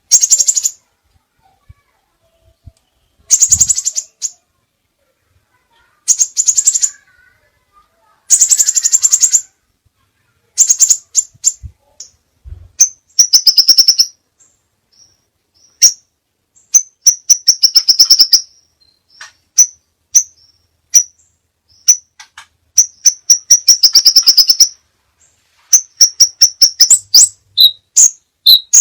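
Crimson sunbird song: bursts of rapid, high-pitched trills, each about a second long with pauses between. The bursts come closer together as it goes on and give way near the end to a quick run of short, sharp chirps.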